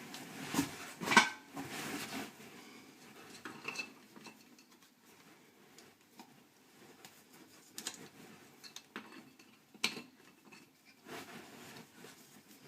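Hard objects clinking and knocking together in a few sharp strikes, the loudest about a second in and another near ten seconds, with quieter handling noise between.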